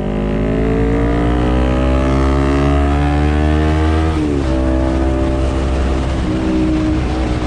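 Honda CBR250RR motorcycle engine running through an R9 H2 titanium full-system exhaust, its pitch rising steadily for about four seconds, then dipping briefly and holding steady at a higher note.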